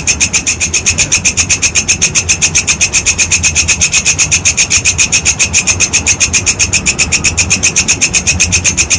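Walang kecek grasshopper stridulating: a fast, even train of dry rasping pulses, about seven a second, with a steady low hum underneath.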